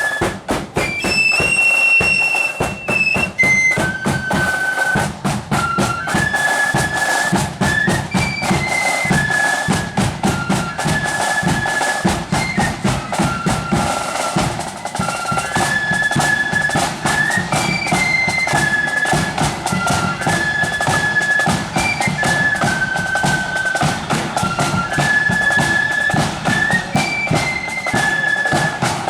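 Marching flute band playing a tune: the flutes carry one melody line together over steady snare and bass drumming.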